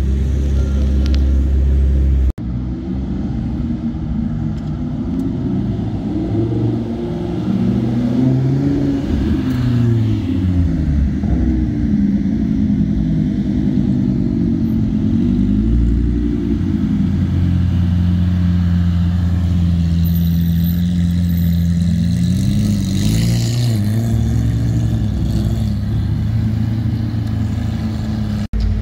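Supercar engines revving and accelerating as the cars pull away one after another, the engine note rising and falling again and again, with a steadier held note in the middle.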